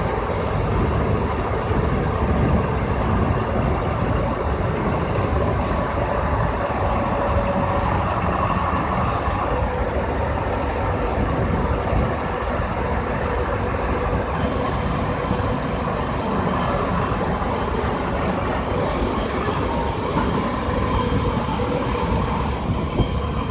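18-ton truck crane's engine and hydraulic system running steadily, with a whining tone over it. The whine shifts a couple of times as the crane's functions are worked.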